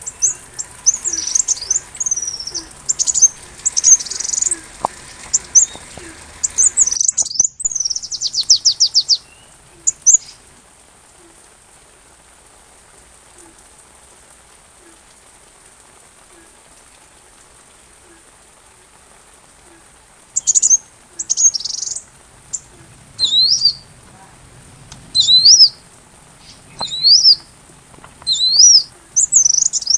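Sunbird song: high, thin chirps and fast trills in quick bursts, then a gap of about ten seconds with only a faint hiss, and from about two-thirds of the way in sharp rising-and-falling chirps again.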